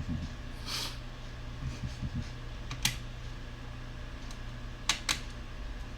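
Light clicks and taps of a laptop's plastic case and small screws being handled during disassembly: a short scrape about a second in, a single click near the middle, and two quick clicks near the end. A low steady hum runs underneath.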